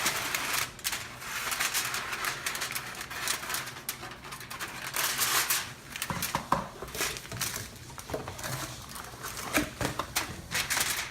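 Aluminum foil crinkling and crackling as it is handled and pressed around a baking dish, in irregular bursts with small clicks throughout.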